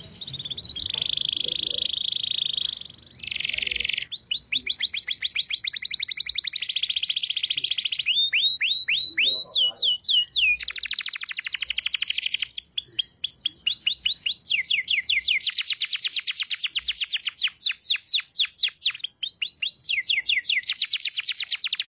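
A songbird singing loudly and continuously: a steadier high, buzzy whistle for the first few seconds, then fast trills of quick downward-sweeping notes that change pattern every second or two.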